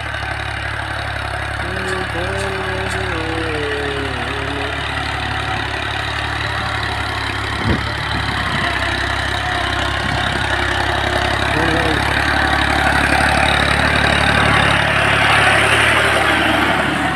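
New Holland 640 tractor's diesel engine running steadily as it pulls a harrow over the field, growing gradually louder toward the end. A single sharp knock comes about eight seconds in.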